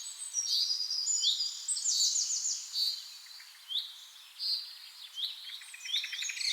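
Birds singing: quick high chirps and short trills, thinning to spaced single calls in the second half.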